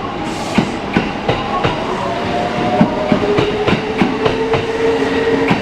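Electric train on the Kintetsu Nara Line running on track, its wheels clicking over rail joints several times a second. From about two seconds in a motor whine sounds and drops in pitch in steps.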